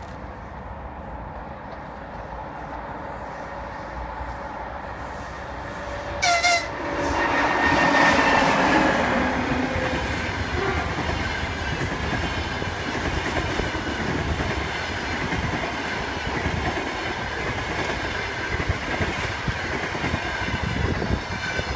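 EP20 electric locomotive approaching with a steady hum, giving one short horn blast about six seconds in, then passing at its loudest. Its double-deck passenger coaches follow with a steady rolling rumble of wheels on the rails.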